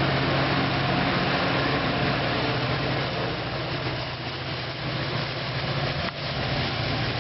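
Diesel locomotive engine drone and the rumble of a Caltrain train moving past, easing slightly midway, with a sharp click about six seconds in.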